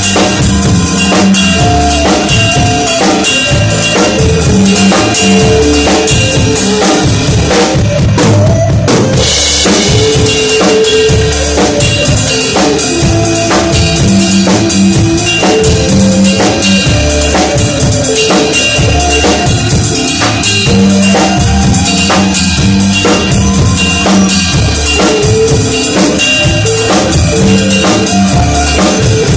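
A drum kit played in a steady, busy groove, with bass drum, snare and rimshots, over pitched accompaniment. The playing breaks briefly about a third of the way through, then carries on.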